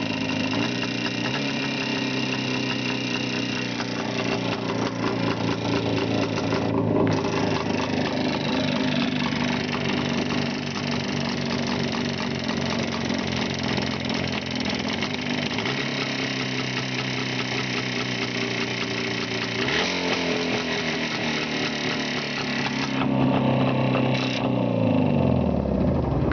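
Engine running with a knock in it that the owner cannot identify. Its speed steps up and back down a few times, and near the end it is switched off and winds down.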